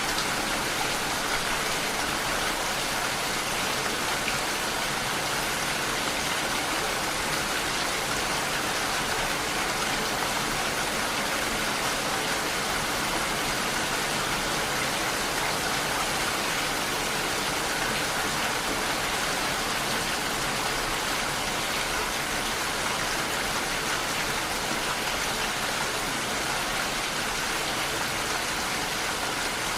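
Steady heavy rain, a dense, even hiss of falling water, which grows louder right at the start and holds steady.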